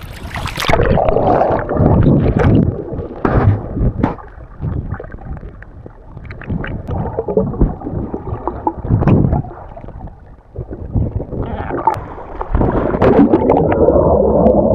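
Seawater sloshing and gurgling around the microphone of a swimmer in the sea, muffled, coming in uneven surges, louder near the end.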